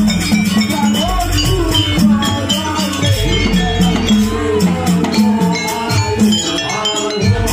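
Live Javanese jaranan music: a percussion ensemble keeping a steady, quick beat with a melody played over it.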